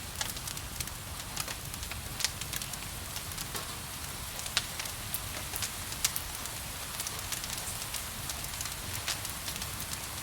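Wood fire crackling, with frequent small crackles and a few sharper pops, over a steady hiss of gentle rain and a low rumble.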